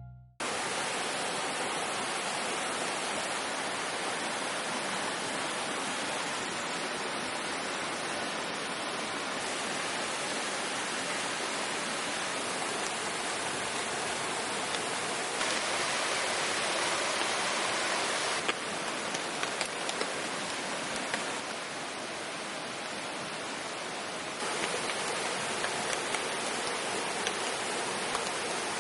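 Steady rain falling, a constant even hiss that steps up or down in level a few times, with a few drops tapping sharply in the second half.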